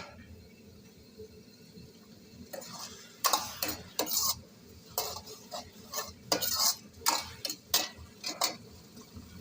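A spoon stirring food in a cooking pan: quiet at first, then from about two and a half seconds in a run of irregular clinks and scrapes against the pan.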